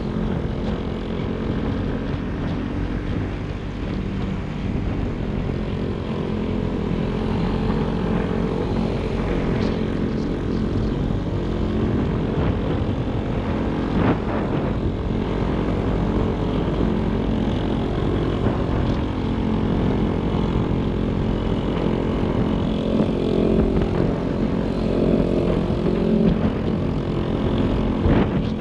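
Motorcycle engine running steadily while riding, with wind rushing over the camera microphone.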